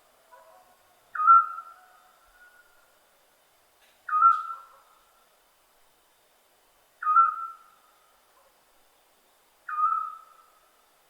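Scops owl calling: a single short whistled note, repeated four times about every three seconds, each dipping slightly in pitch and trailing off.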